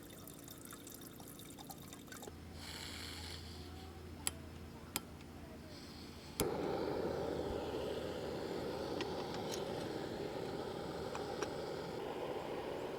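Two sharp clicks, then a small camp gas stove lights with a sudden whoosh about six seconds in and burns with a steady hiss as the coffee water heats.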